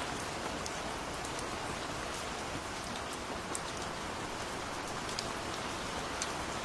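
Steady gentle rain falling, an even hiss with scattered light drop ticks.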